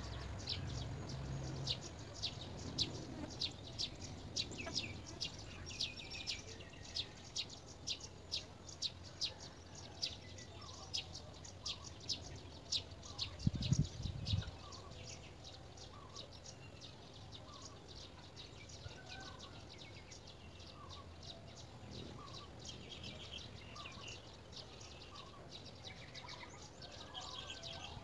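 Birds calling: a rapid series of sharp, high chirps, about two or three a second, for the first half, then short lower calls about once a second. A low thump comes about halfway through.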